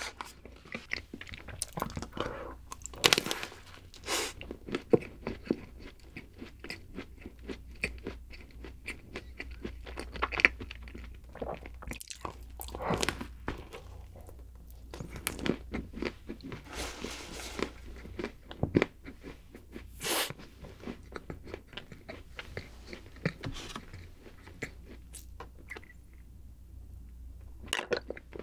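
Close-up eating sounds of a chocolate-coated round snack cake: crisp crunches of the chocolate shell and wet chewing, with a few louder crunches scattered through.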